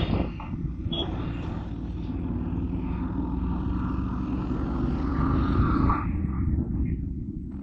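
Motorbike riding along the road: a steady low rumble of engine and road noise, with a brief click about a second in.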